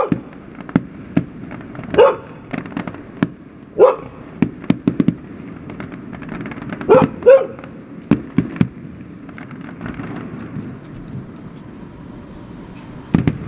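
Fireworks going off in sharp bangs and crackles, scattered through the whole stretch. A dog barks loudly about five times over it, roughly every two seconds, with two barks in quick succession near the middle.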